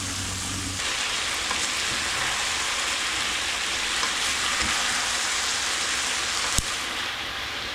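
Chicken sizzling in hot oil in a frying pan: a steady frying hiss. A low hum stops just under a second in, and there is a single sharp click about six and a half seconds in.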